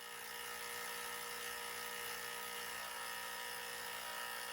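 Olympia Maximatic espresso machine's vibratory pump buzzing steadily as the reassembled machine is run in a test.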